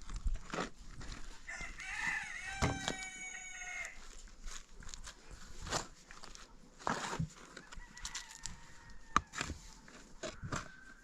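A rooster crowing once, a single drawn-out call of about two and a half seconds starting about a second and a half in. Scattered short knocks and clicks sound around it.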